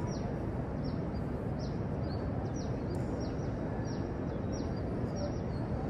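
A bird giving repeated short, high, downward chirps, about one every half second, over steady low outdoor background noise.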